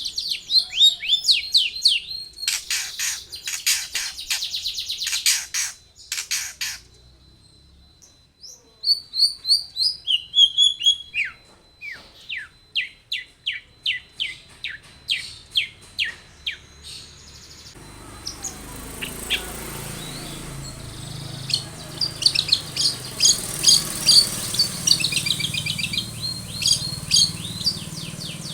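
Long-tailed shrike (cendet) singing in fast, repeated high chirping phrases, with short pauses between runs. From about 18 seconds in, a low background noise sits under the song.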